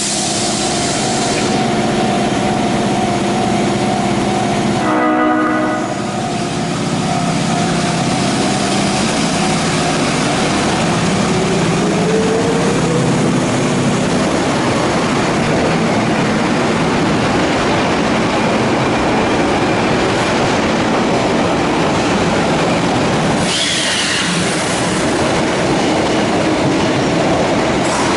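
An Osaka Municipal Subway 30 series train sounds its horn for the first few seconds, a held chord of several tones; this set's horn is known for sounding abnormal. The train then runs on with steady rail noise, and its motor whine rises about a dozen seconds in.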